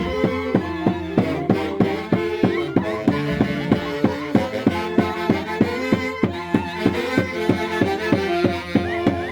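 Andean Santiago dance music: a fiddle-led melody over a steady, driving drumbeat of about three beats a second.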